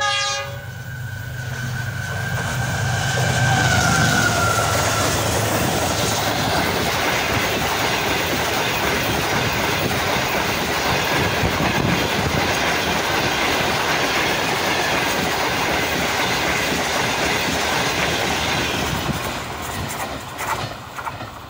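Green Line Express train passing through the station at high speed: the horn cuts off right at the start, the locomotive goes by with a falling tone about four seconds in, then the coaches rush and clatter over the rails for about fifteen seconds, fading away near the end.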